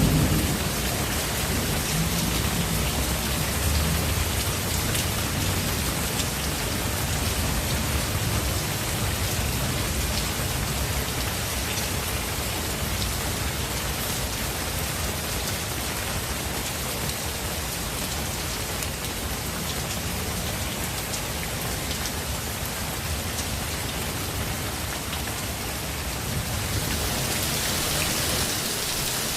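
Steady heavy rain on foliage, with the low rumble of thunder dying away over the first several seconds. The rain grows brighter near the end.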